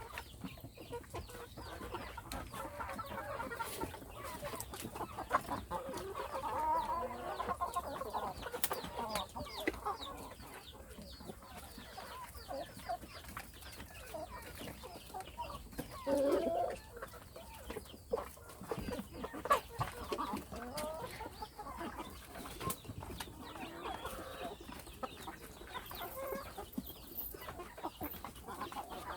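A flock of young hens clucking on and off, with many short clicks and taps among the calls.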